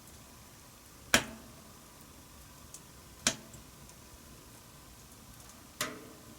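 Wood fire in a wood-burning stove crackling: three sharp, loud pops, about a second in, past three seconds and near the end, with faint small ticks between them over a low hiss.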